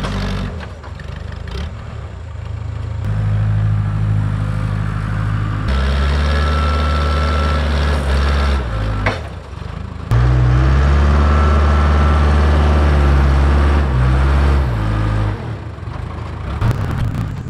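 Diesel engine of a Case 580K backhoe loader working dirt, its note stepping up and down in several stages as it takes and sheds load. It is loudest a little over halfway through, with a faint whine in the hardest-working stretches.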